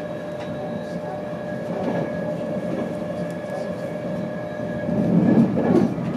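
Running noise heard inside a passenger coach of an InterCity 225 train at speed: a steady rumble of wheels on the track with a faint steady hum. About five seconds in the rumble grows louder and rougher.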